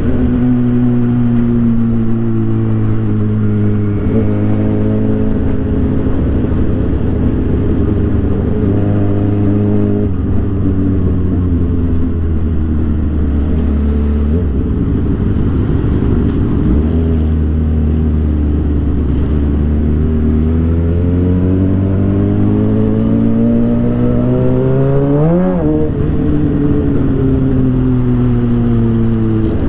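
Suzuki GSX-R 750 inline-four engine with an Orion aftermarket exhaust, heard while riding: engine speed falls and rises gradually as the bike cruises and accelerates. About 25 seconds in there is a quick sharp rev up and back down, like a throttle blip.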